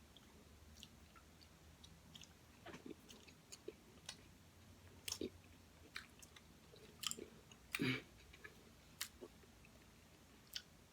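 Faint close-up mouth sounds of cotton candy being eaten: soft chewing and scattered wet lip smacks and clicks, one louder smack about three-quarters of the way through.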